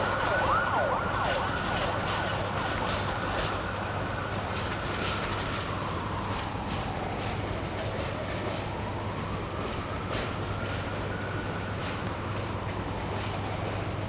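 A train running by, with wheels clicking over the rail joints and a high whine that slides down and back up in pitch over several seconds.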